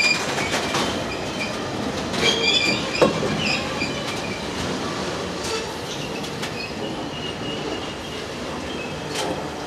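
Freight box wagons rolling past close by, their wheels running on the rail. High wheel squeals come and go in the first few seconds, a sharp clank sounds about three seconds in, and scattered clicks follow over rail joints.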